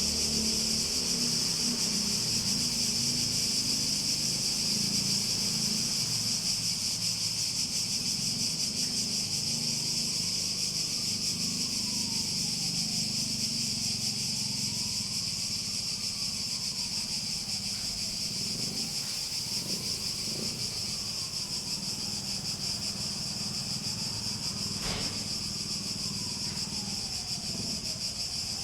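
Chorus of cicadas buzzing in one continuous, dense, high-pitched drone that holds steady throughout.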